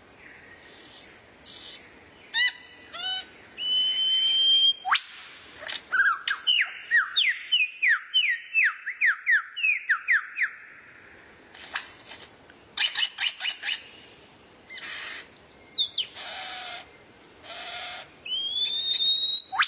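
Recorded songbird song of the kind used as masteran for training magpie-robins: varied chirps and a long rising whistle, then a quick run of short downward-sliding whistles at about three a second, then harsh buzzy calls, with another rising whistle near the end.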